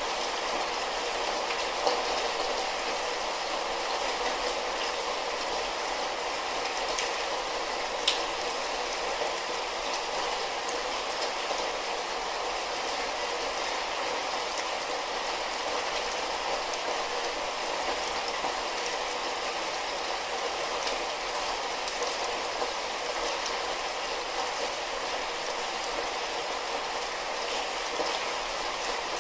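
Steady light rain, an even hiss with a few sharper drop clicks scattered through it.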